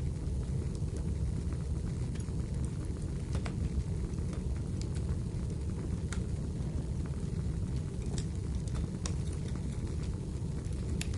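Wood fire burning in a fireplace: a steady low rumble with irregular sharp crackles and pops of the burning firewood scattered throughout.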